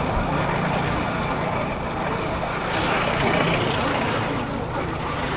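Wind rushing over the microphone of a moving motorcycle, with the engine's steady low hum underneath.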